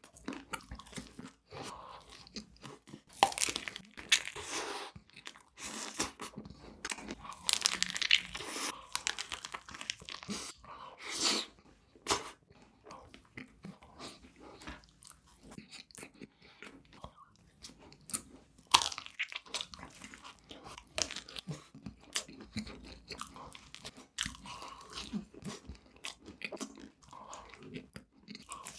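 Close-miked ASMR eating sounds of a person biting and chewing crunchy sugary desserts. Irregular crisp crunches come every second or so, with a few louder bites, and softer chewing in between.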